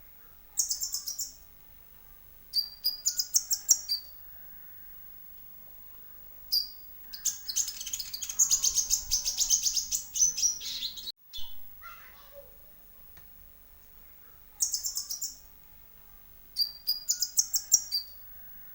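Kolibri ninja (Van Hasselt's sunbird) song: repeated bursts of high, rapid twittering trills every couple of seconds, with one longer trill in the middle that cuts off abruptly.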